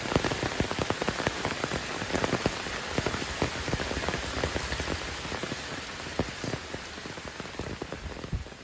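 Heavy rain falling, many close, sharp drop strikes over a steady hiss, slowly getting quieter toward the end.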